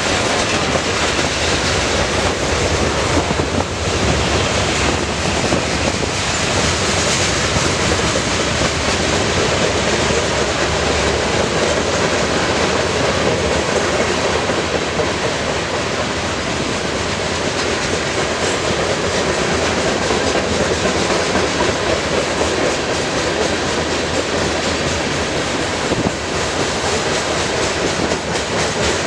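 Freight train cars rolling past steadily on the rails, a continuous loud rumble and wheel noise.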